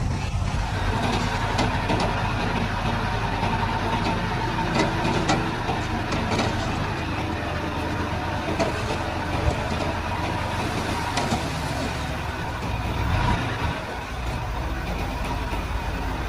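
Diesel engine of a Komatsu D31-P crawler bulldozer running steadily under work, with scattered short clanks over the low rumble.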